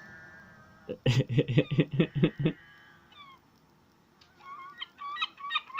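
Gulls calling: a quick run of about eight loud, rapid calls just after a second in, then a steady series of repeated down-slurred calls, two or three a second, building in loudness. The calling is the gulls summoning others to food they have found.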